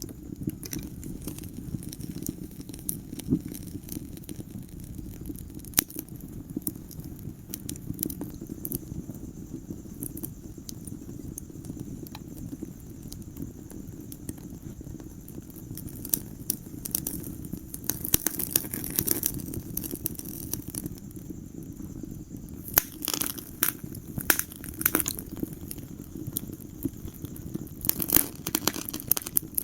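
Wood fire burning in a fireplace: a steady low rumble of flames with irregular sharp crackles and pops, coming in quick clusters of snaps several times.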